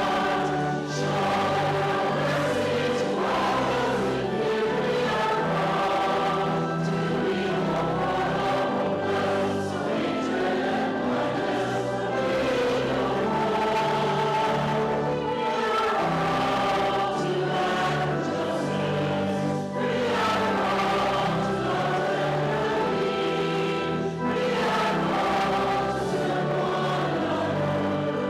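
Church congregation singing a hymn together, with an instrument holding steady bass notes beneath the voices.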